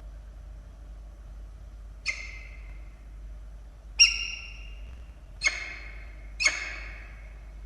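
Peregrine falcon calling: four sharp, harsh calls one to two seconds apart, each starting loud and trailing off, the second one loudest.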